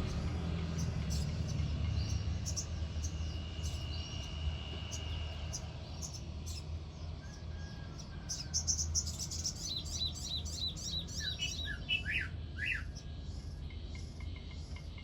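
A sogon songbird singing in full voice: scattered sharp high chirps, a thin held whistle about four seconds in, then a quick run of notes falling in pitch from about nine to thirteen seconds. A steady low hum runs underneath.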